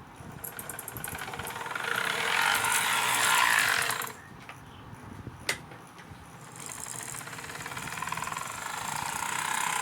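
Model GP40-2 locomotive's electric motor and drive gears whirring as it runs along the track. The sound grows louder, stops suddenly about four seconds in, and builds again from about six and a half seconds.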